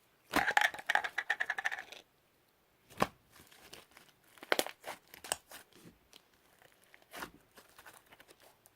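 Slime being squeezed and stretched by hand: a dense run of rapid crackling pops for about a second and a half, then scattered single pops and clicks.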